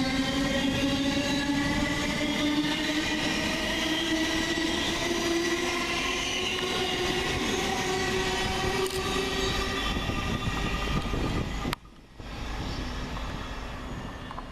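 Class 700 electric multiple unit pulling away, its traction motors whining in several tones that rise slowly in pitch as it gathers speed, over the rumble of the train. The sound cuts off abruptly about twelve seconds in, and quieter station noise follows.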